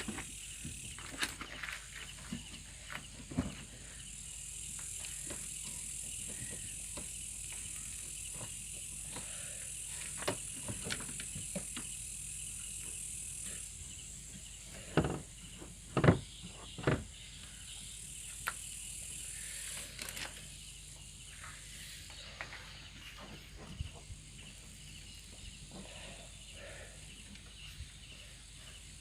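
Steady high chirring of insects such as crickets, with scattered sharp clicks and three louder knocks about fifteen to seventeen seconds in, from tools and metal parts being handled during washing machine reassembly.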